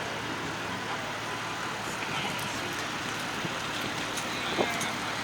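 Steady road traffic noise of cars running, with no single vehicle standing out.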